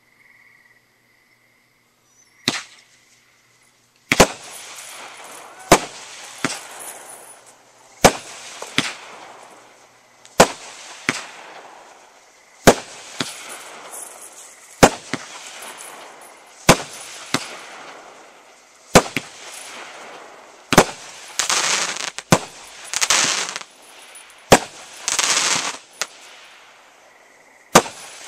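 Multi-shot consumer firework cake firing: a single shot about 2.5 s in, then from about 4 s a steady run of shots, one every second or so, each followed by crackling. Near the end come longer, louder crackling bursts.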